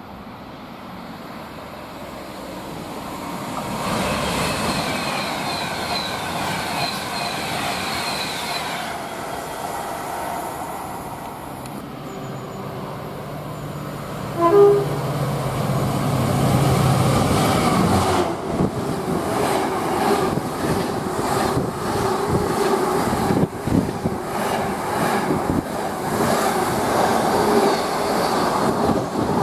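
A freight train approaching and passing close by. The rails hum and sing as it nears, and the locomotive sounds a short horn blast about halfway through. The locomotive's engine goes by, then the loaded container wagons roll past with a steady clatter of wheels over the rail joints.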